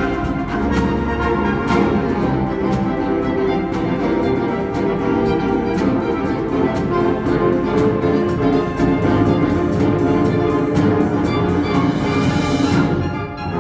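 School wind ensemble with a featured saxophone quartet playing sustained, full chords over a steady pulse of sharp percussion strikes. The sound dips briefly near the end, then the playing resumes.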